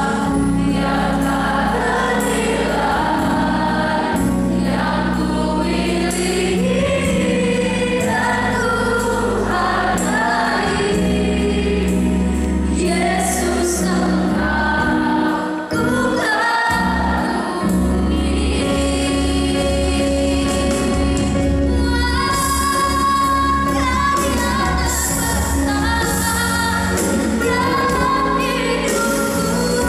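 A woman singing a Christian gospel song over steady instrumental accompaniment, the music dipping briefly about halfway through.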